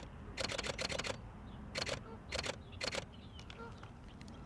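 Canon R5 camera shutter firing in rapid bursts of clicks, about four short bursts in the first three seconds, while capturing birds in action.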